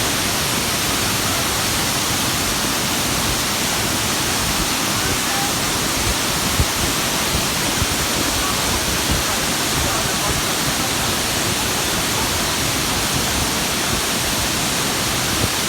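Fukuroda Falls, a large tiered waterfall, pouring with a steady, even rush of water, with a brief low bump about six and a half seconds in.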